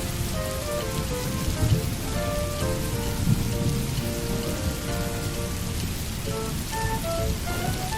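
Steady rain falling, with soft melodic background music of short held notes over it. Two brief low thumps come about two and three seconds in.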